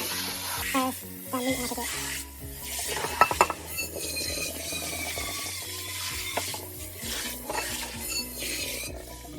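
A metal cooking pot being handled: clinks and scrapes, thickest about three seconds in, with a sizzling hiss, over background music.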